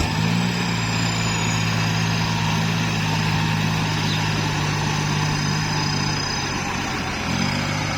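Kubota farm tractor's diesel engine running steadily under work, with a slight change in pitch near the end.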